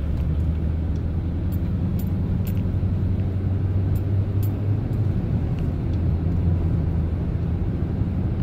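Chevrolet Silverado pickup driving, heard from inside the cab: a steady low engine and road rumble, with a few faint ticks in the first half.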